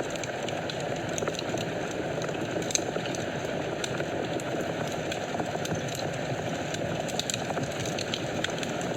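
Wood fire burning in a fireplace: a steady rush of flames with scattered small crackles and pops throughout.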